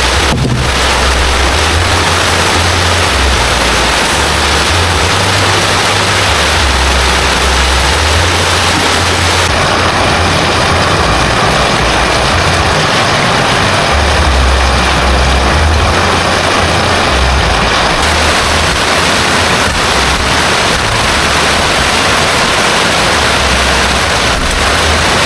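Heavy rain pouring steadily, a dense even hiss with a low rumble underneath that swells and fades.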